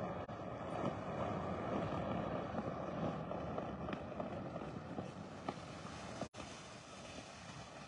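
Powered parachute's engine droning steadily at a distance as it comes in to land, fading toward the end.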